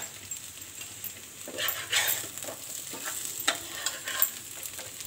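Sliced potatoes sizzling as they fry in a pan, with a metal spatula scraping and clicking against the pan as they are turned. The scrapes are loudest around two seconds in, and a few more sharp ones come in the second half.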